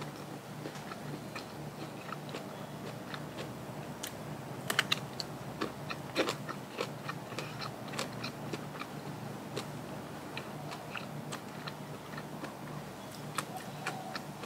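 A person chewing and biting food close to the microphone: soft mouth noises with scattered crisp crunches and clicks, a few louder ones about five and six seconds in, over a faint steady hum.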